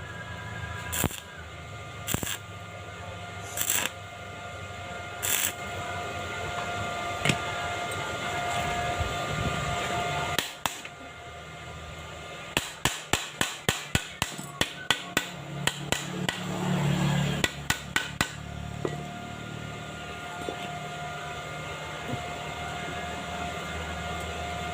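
A hammer striking metal while a rusted-through motorcycle exhaust is patched. There are a few separate knocks at first, then a quick run of taps at about three to four a second in the middle, and a few more after that, over a steady hum.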